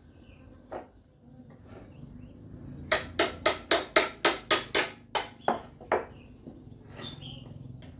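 Hammer blows in a quick run of about a dozen, roughly four a second, spacing out near the end. One lighter knock comes about a second in.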